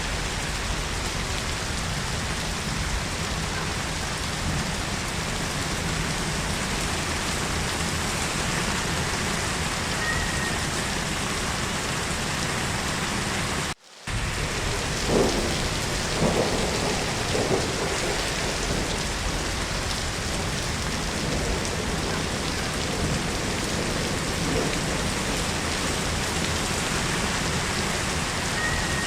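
Steady heavy rain falling. About halfway through the sound drops out for a split second, then several rumbles of thunder swell up over the rain.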